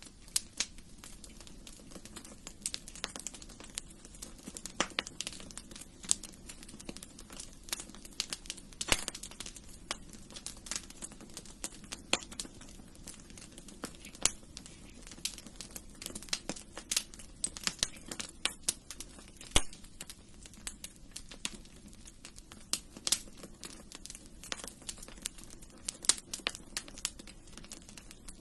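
Wood fire in a fireplace crackling, with irregular sharp pops and snaps over a low steady rush of the flames.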